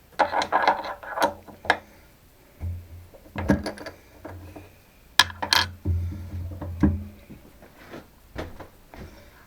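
Metal tools and parts clinking and knocking as they are handled on a workbench, a scattered run of sharp clicks, a few of them loud, with a low hum coming and going.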